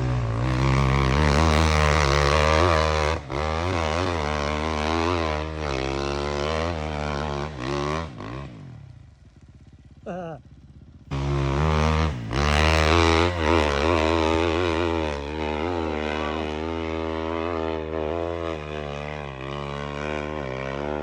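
Dirt bike engine revving hard and unevenly as the throttle is worked on a steep climb. About eight seconds in it falls away to near quiet, then it comes back abruptly about three seconds later and revs on.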